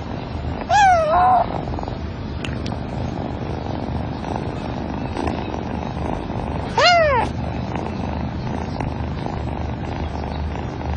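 A cat meowing twice: a wavering call about a second in, and a short call that rises and falls in pitch about seven seconds in. Both sound over a steady background hiss and low hum.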